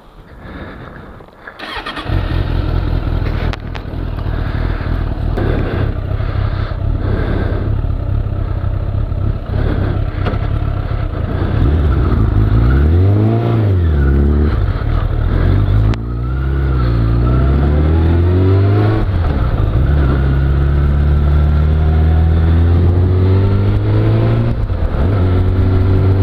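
Suzuki Bandit 600S inline-four motorcycle engine, coming in sharply about two seconds in and pulling away. Its pitch rises and falls with revving through the gears, then it holds a steady note under way.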